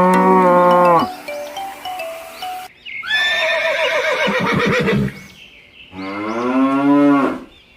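Horse whinnies over light background music: a call fading out in the first second, a long call about three seconds in that falls in pitch and ends in a flutter, and another falling call near the end.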